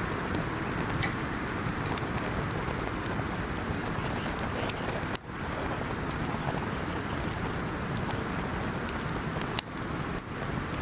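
Wood campfire burning: a steady hiss dotted with frequent sharp crackles and pops from the burning wood.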